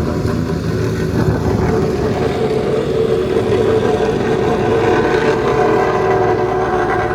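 Street traffic: a motor vehicle running close by, with a low rumble and a steady whine that grows stronger in the second half.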